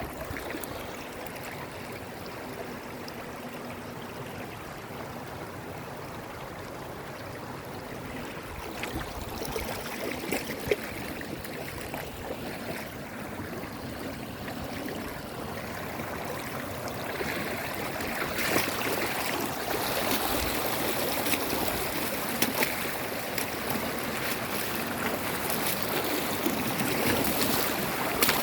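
Running water in a stream, a steady rushing with small splashes and drips, growing louder in the second half.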